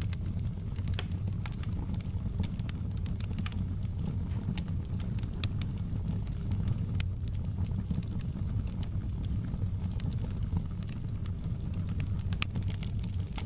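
A fire in a fireplace crackling: a steady low rumble of burning with frequent, irregular sharp crackles and pops.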